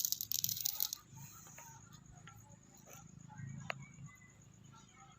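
Dry plant material rustling and crackling, loudest in the first second, then scattered light clicks and one sharper tick a little past halfway.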